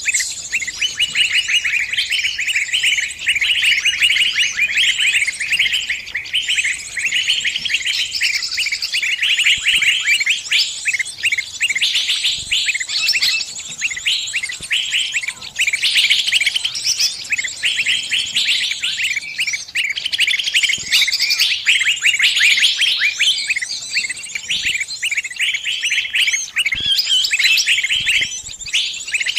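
Small bird distress calls: a dense, nonstop run of rapid high chirps, given as the cries of a trapped bird calling its flock for help.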